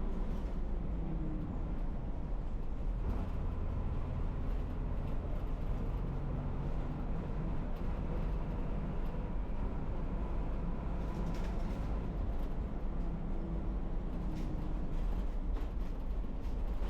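Inside a non-air-conditioned city bus: the engine runs steadily with a low hum that drifts slightly in pitch, under a constant wash of road and traffic noise.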